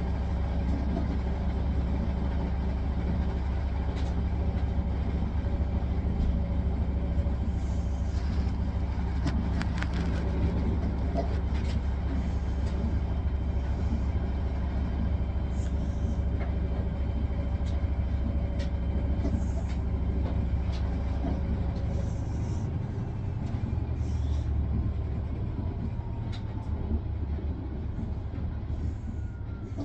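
Hisense washing machine on its spin cycle: a steady motor and drum hum with a low whine. About 22 seconds in the hum drops in pitch and gets a little quieter as the spin eases off.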